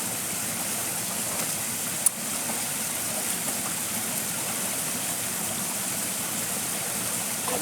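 Stream water flowing steadily, with one sharp click about two seconds in.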